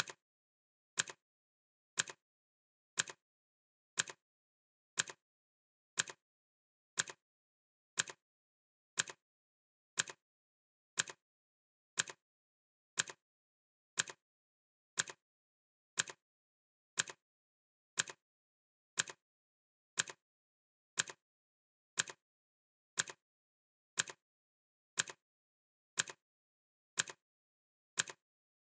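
Clock-ticking sound effect: one sharp tick each second, evenly spaced and all alike, with dead silence between ticks.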